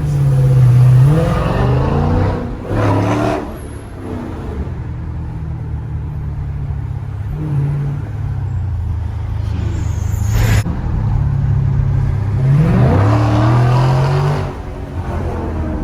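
Muffler-deleted Dodge Challenger 1320's 392 HEMI V8 accelerating hard twice, heard from inside the cabin: the exhaust note climbs and drops back through gear changes in the first few seconds and again near the end, with a steadier, quieter cruise between.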